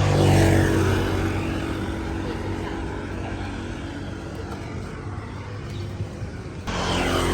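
Motor vehicles passing on a road, engine pitch falling as one goes by, with steady traffic running underneath. Another vehicle passes, its pitch falling, after a sudden change near the end.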